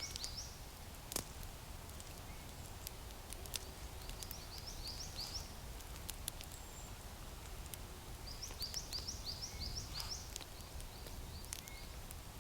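A small bird calling in two runs of short, high chirps, one in the middle and one near the end, over faint outdoor background with scattered sharp clicks and ticks.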